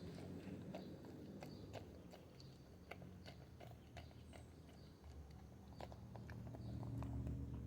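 A dog chewing its dog food: faint, irregular clicks and crunches of eating, a few a second.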